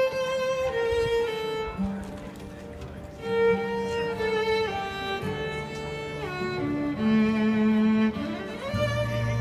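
Instrumental music: a violin playing a slow melody of long held notes, with a rising slide near the end, over sustained low bass notes.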